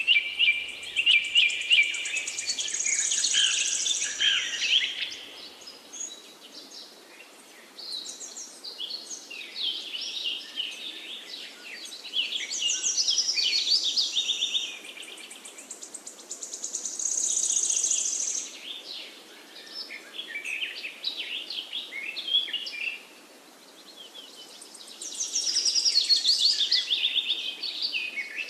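Songbirds singing: a string of varied, high-pitched song phrases, several with fast trills, coming every few seconds over a steady faint background hiss.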